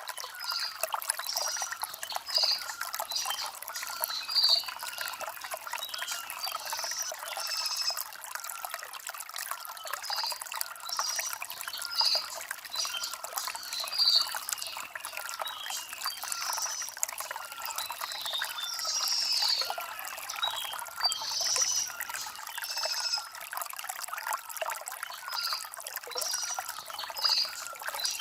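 Shallow stream trickling and babbling over stones: a continuous, uneven run of small splashes and gurgles, light and high with no low rumble.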